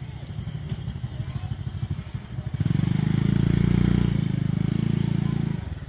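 Small motorcycle engine running with a fast, even low pulse, rising to a louder rev for about three seconds from just under halfway in, then easing back.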